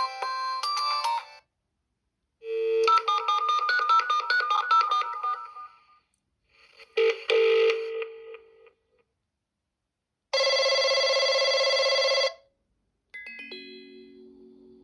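Preloaded ringtones of a Siemens S75 mobile phone played one after another, each a few seconds long, with short silences between. First come short electronic melodies of stepped notes, then a steady buzzing tone of about two seconds, then a two-note tone that fades away near the end.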